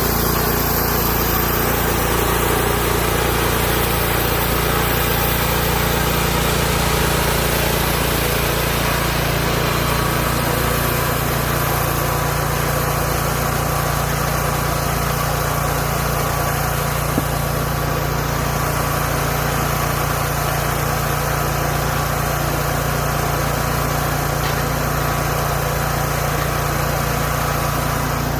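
Hudson Homesteader 30 band sawmill's small engine running steadily, its low drone shifting slightly about ten seconds in.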